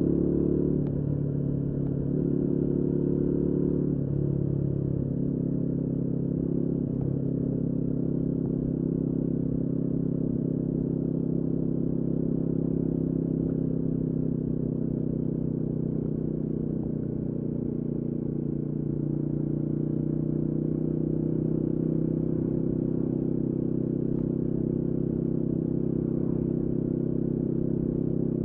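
Royal Enfield Guerrilla 450's single-cylinder engine running. Its pitch rises and drops a few times in the first several seconds, as with throttle or gear changes, then holds a steady note.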